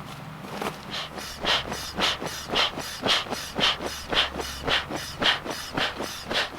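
Footsteps crunching through leaf litter and twigs on a woodland floor, about two steps a second at a steady walking pace.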